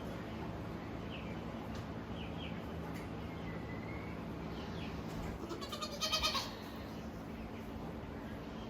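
A goat doe in labor bleats once, a loud wavering cry about six seconds in, while straining through a push. A steady low hum and a few faint chirps sit underneath.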